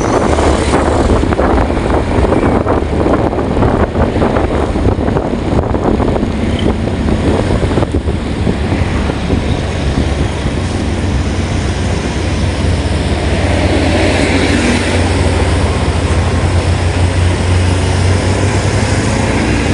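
A steady low engine rumble under a continuous hiss.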